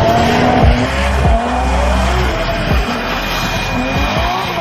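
A car at high revs with its tyres squealing, as in a drift or burnout. There is a loud steady screech over the engine note, which wavers and rises toward the end.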